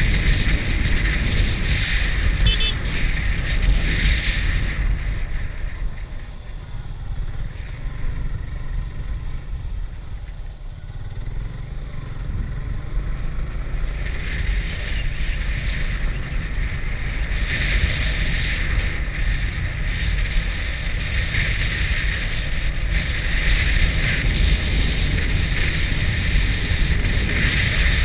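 Motorcycle running on the move, its engine rumbling steadily under rushing wind noise on the microphone. The sound eases off for a few seconds in the first half, then builds again.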